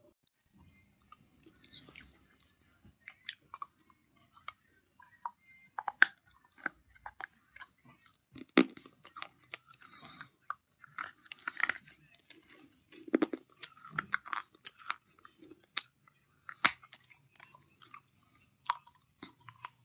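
Dry clay being bitten and chewed close to the microphone: irregular sharp crunches with softer crumbling in between.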